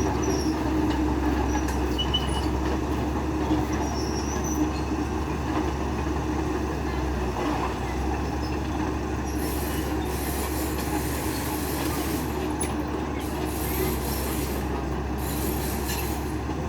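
Engine running steadily with a constant low hum, and faint short squeaks in the first few seconds.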